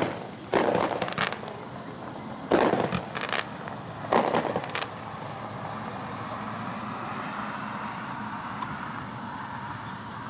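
A 12-shot, 200-gram fireworks repeater cake firing, heard from a distance: four clusters of sharp bangs and pops in the first five seconds, then only a steady background hiss.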